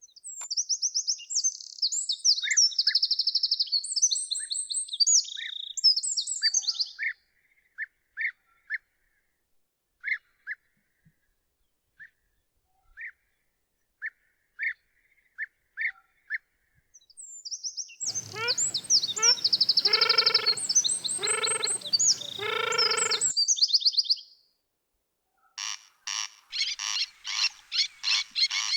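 Songbirds singing high, fast trilled phrases, with scattered single chirps in a quiet stretch between. About two-thirds through come three deep croaks about a second apart, and near the end a frog's rapid pulsed call, about four pulses a second.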